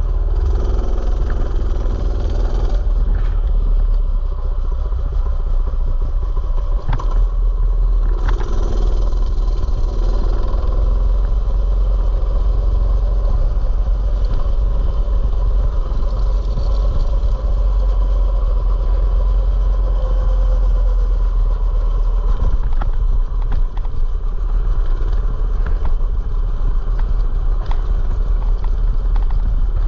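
Mini bike engine running steadily under way, with a few brief knocks of clatter about seven or eight seconds in.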